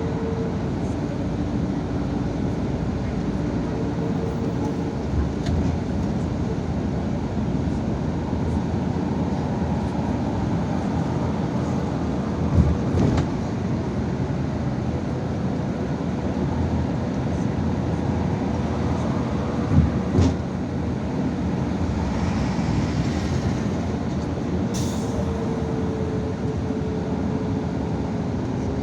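Interior ride sound of a Yutong ZK6128HG city bus: steady engine and road noise with a faint whine, a couple of knocks from bumps about halfway through and again a little later, and a short hiss of air near the end.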